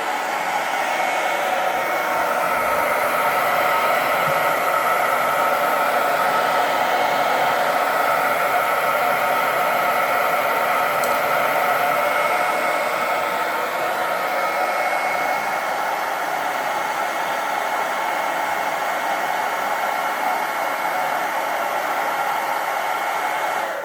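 Handheld hair dryer running steadily, a rushing airflow with a motor whine in it, switched off right at the end.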